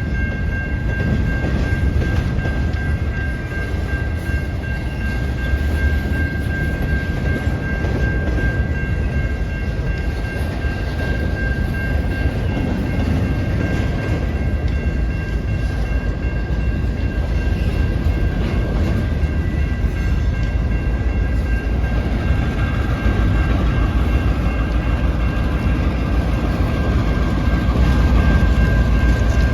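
Intermodal freight train rolling past at close range: a steady heavy rumble of wheels on rail, with a steady high-pitched whine over it throughout.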